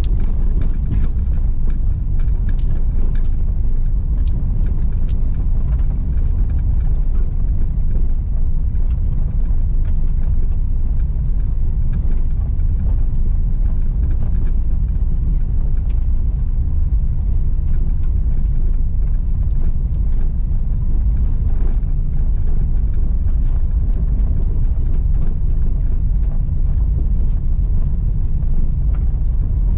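Car driving over a rough unsealed road: a steady low rumble of tyres and engine, with many small clicks and knocks scattered through it from stones and rattles.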